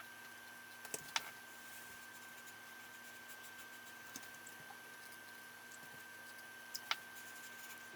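A few faint, sharp clicks and taps, two close together about a second in and two more just before seven seconds, over a steady faint high-pitched whine.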